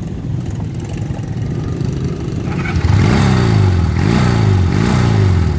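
Old Honda motorcycle engine running. It idles steadily, then about three seconds in the throttle is blipped over and over, the revs rising and falling back each time. It sounds pretty good but is taken to need its idle dialed in with a little carb adjustment.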